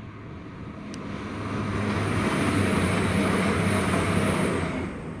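Passenger train passing at speed. The rumble and rush of the wheels grow from about a second in, hold with a low hum and a steady high whine, then fade away near the end.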